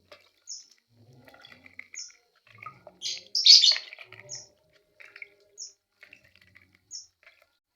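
A bird chirping: short, high chirps repeated about once every second and a half, with a louder burst of calls a little past three seconds in.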